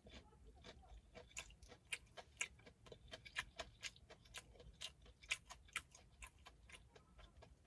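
A mouthful of crispy fried chicken being chewed: quiet, irregular crunching clicks, several a second.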